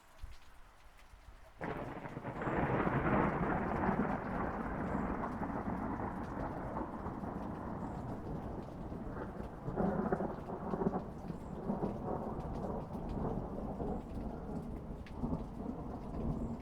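A thunderclap breaks suddenly about a second and a half in and rolls on as a long rumble, swelling again about ten seconds in, over steady rain.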